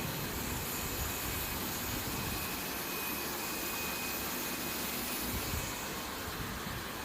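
Steady rushing noise of factory machinery, with faint thin high whines above it.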